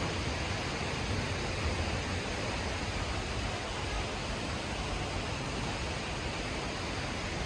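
Steady rush of water from a 55 m plunge waterfall pouring into its pool.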